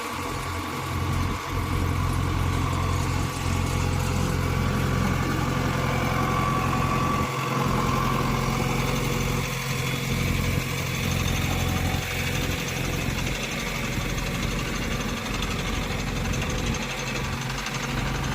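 Heavy diesel engine running steadily with a low, even drone, getting a little louder about a second in.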